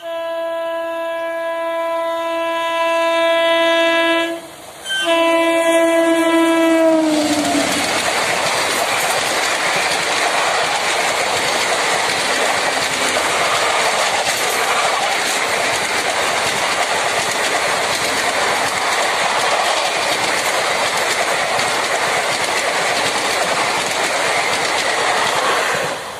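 Indian Railways locomotive horn sounding a long blast, a short break, then a second blast whose pitch drops as the locomotive passes. After that a long rake of ICF passenger coaches runs past with a loud, steady noise of wheels on rail.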